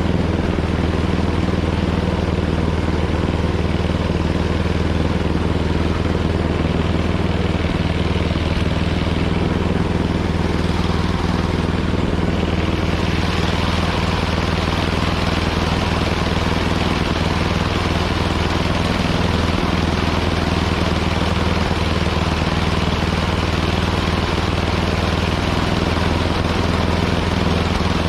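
Small gasoline snowblower engine running steadily under load, with a constant hum. A brighter hiss joins about halfway through.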